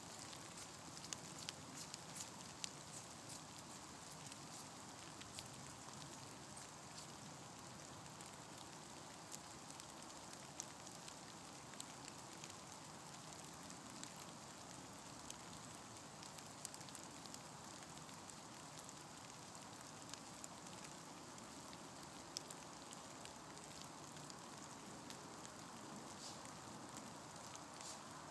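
Light rain falling steadily and faintly, with scattered drops ticking close by.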